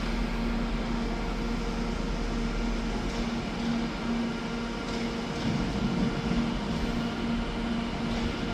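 A train's steady mechanical drone, a low tone that pulses gently over a constant deep hum.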